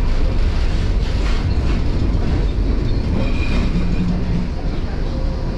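Tram running on its rails: a steady low rumble of wheels on track, with a few clacks about a second in.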